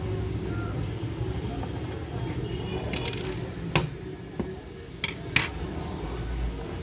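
A few short, sharp clicks and taps of small hard objects, about four of them in the second half, over a low rumble that fades away.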